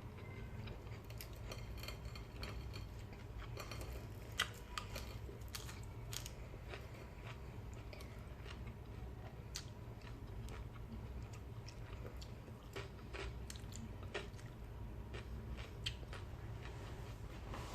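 Close-up mouth sounds of eating fried fish: chewing with many small wet clicks and smacks. A steady low hum sits underneath.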